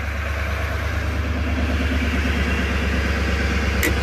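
2019 Chevy Silverado 2500 HD's L5P Duramax 6.6-litre V8 turbodiesel running just after a cold start, slowly getting louder as the cold-start high idle comes in. A short click sounds near the end.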